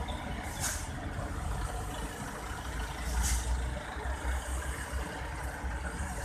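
A heavily loaded Mitsubishi Fuso diesel truck's engine rumbling as it comes down a steep bend, with two short bursts of air hiss, about a second in and again about three seconds in.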